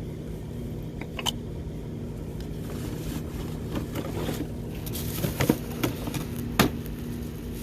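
Spark plug change under an open bonnet: a few sharp clicks and knocks of metal tools and parts, one about a second in and two near the end, over a steady low hum.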